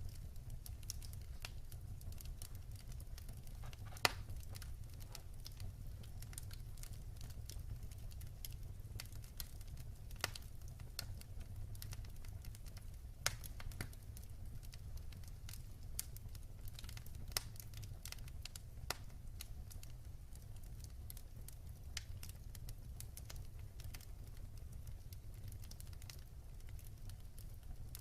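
Wood fire burning in a fireplace: irregular crackles and sharp pops over a steady low rumble of the flames, with a louder pop about four seconds in and a few more now and then.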